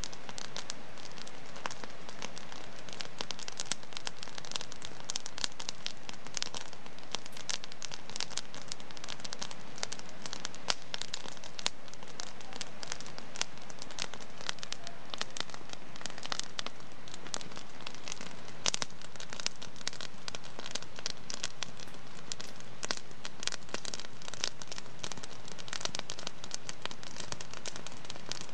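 Wood fire in a fireplace crackling steadily, with dense irregular pops and snaps over a soft hiss.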